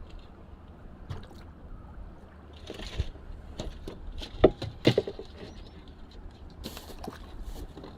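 Water sloshing and splashing around a small boat as a fishing net is set, with scattered light knocks and two louder knocks or splashes about four and a half and five seconds in.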